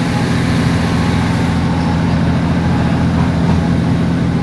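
Steady diesel train drone and rumble heard through an open carriage window, with another train passing close alongside; the higher hiss thins a little about a second and a half in.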